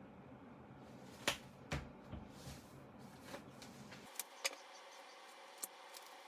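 Scattered sharp clicks and taps of small objects being handled on a work surface, about six in all, the two loudest close together in the first two seconds, over a faint steady background; a low hum cuts out abruptly about two-thirds of the way through.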